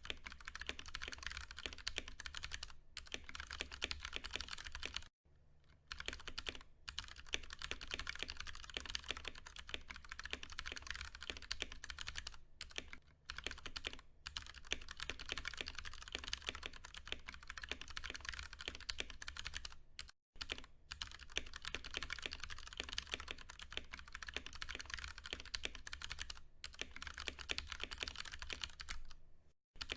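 Steady typing on a Ducky One 2 Mini mechanical keyboard with tactile Cherry MX Brown switches, in dense runs of keystrokes. It breaks off briefly about five seconds in, about twenty seconds in, and just before the end.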